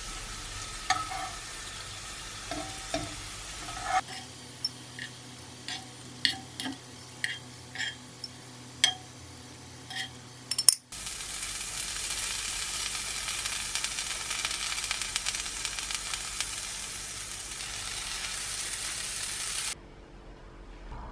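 Thin potato slices sizzling as they fry in a nonstick frying pan, with the metal tongs that turn them clicking sharply against the pan and the slices. About eleven seconds in the sizzling becomes louder and steadier, then it cuts off abruptly near the end.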